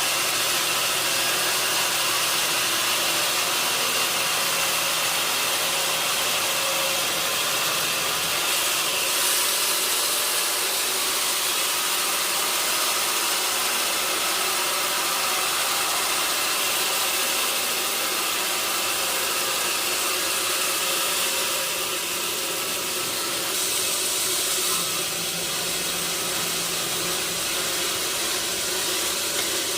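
Sawmill saw and machinery running steadily: a constant hissing noise with a faint held whine.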